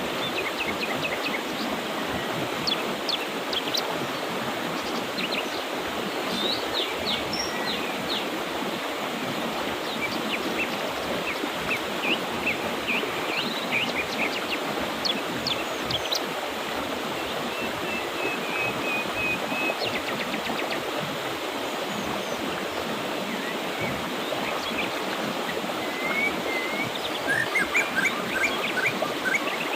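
Mountain river water rushing steadily, with small birds chirping and trilling over it throughout, the calls busiest near the end.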